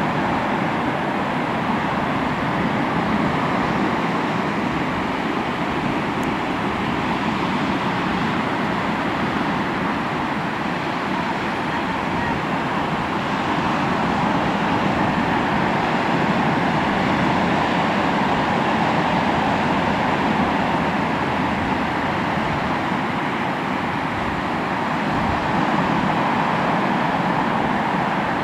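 Sea waves washing onto the shore: a steady rush of surf that slowly swells and ebbs.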